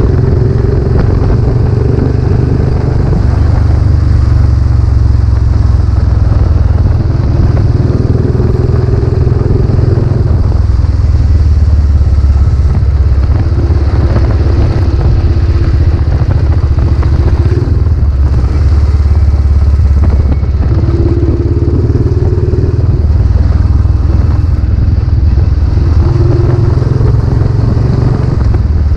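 Royal Enfield Classic 500's single-cylinder engine running through a newly fitted silencer on the move, its note shifting every few seconds as the revs change.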